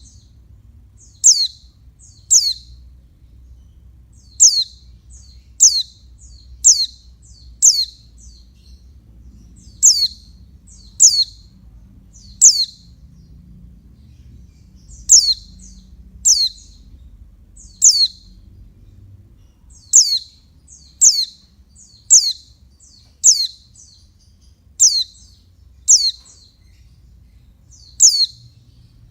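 Female pleci (white-eye) giving short, sharp, high-pitched call notes, each a quick downward sweep, repeated about once a second with a few brief pauses.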